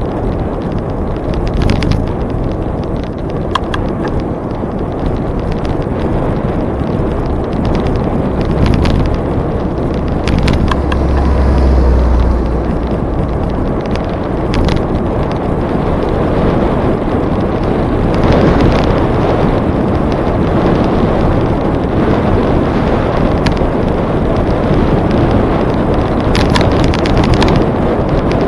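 Wind rushing over the microphone of a camera on a moving bicycle, with a heavier low buffeting gust partway through and scattered small clicks and rattles from the bike on the trail.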